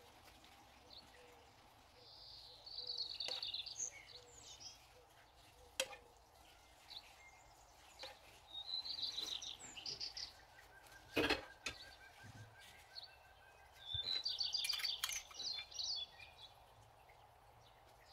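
A bird chirping in three short bouts of rapid, high repeated notes, with a few sharp clicks between them, the loudest about eleven seconds in.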